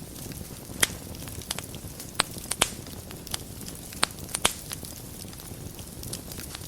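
Wood fire burning in a fireplace: a steady low rustle of flames with sharp crackles and pops of burning wood, about eight of them scattered irregularly.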